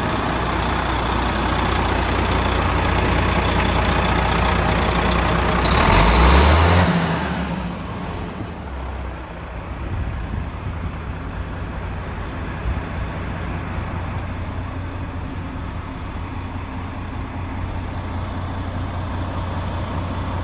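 Volvo D13A six-cylinder diesel engine of a Volvo FM tractor unit running. It swells louder briefly about six seconds in, then settles to a quieter steady idle.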